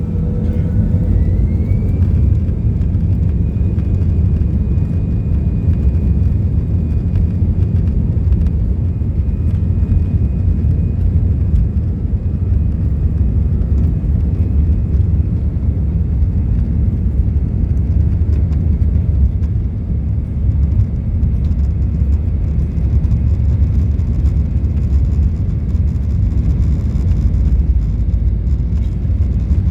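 easyJet Airbus airliner's jet engines spooling up for takeoff: a heavy steady rumble under a whine that rises in pitch about a second in and then holds.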